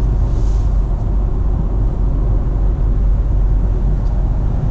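Inside the cabin of a 2019 Ford Edge ST with a Borla S-Type cat-back exhaust on its twin-turbo V6, cruising steadily at about 70 mph with the windows up: a steady low exhaust rumble, a slight little growl, under road noise.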